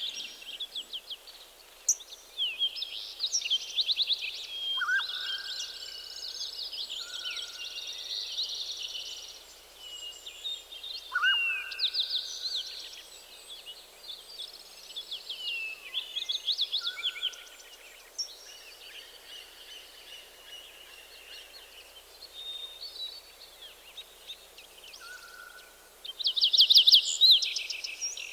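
Several songbirds singing at once: rapid trills and chirps with short whistled notes, over a faint steady hiss, with a loud burst of trilling near the end.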